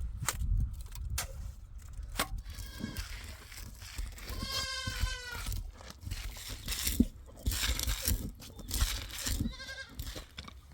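Bleating of small livestock: one long, wavering bleat about four seconds in, with shorter bleats before it and near the end. Scattered knocks and a low rumble lie underneath.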